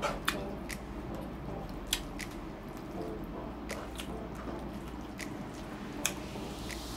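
Close-up wet chewing and lip-smacking from someone eating rice and saucy pork ribs: irregular sticky mouth clicks, with a few sharper smacks standing out.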